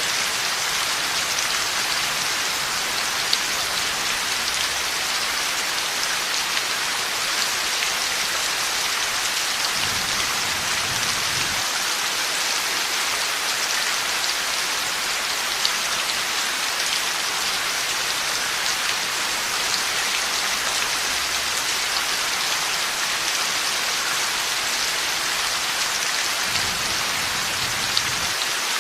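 Heavy rain falling steadily, a dense even hiss with scattered drop ticks. Faint low rumbles of distant thunder come in about ten seconds in and again near the end.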